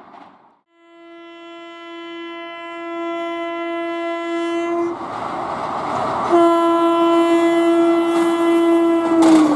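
Indian express train's horn sounding two long steady blasts as the train approaches, the second about three seconds long, with the train's running rumble growing louder underneath. Near the end the horn's pitch drops as the train goes by and the wheels' clatter begins.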